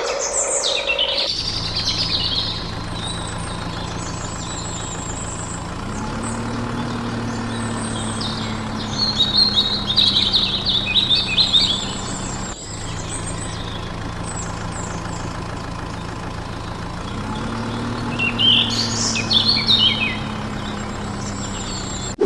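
Truck engine running steadily, rising in pitch twice as it revs. Birds chirp over it in two spells.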